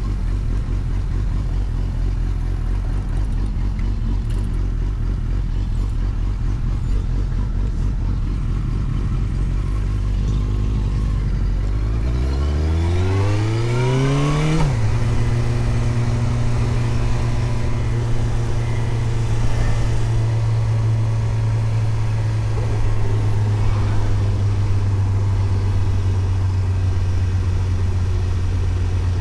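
Suzuki GSX-S750 inline-four motorcycle engine running at a steady low pitch, then revving up for a couple of seconds about twelve seconds in, dropping suddenly, and settling into a steady higher-pitched run.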